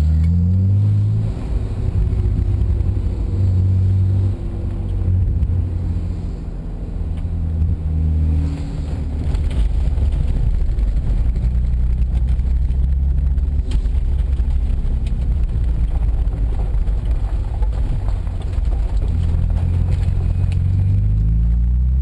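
Race car engine heard from on board at speed, its pitch rising as it accelerates near the start and again near the end, over a heavy low rumble.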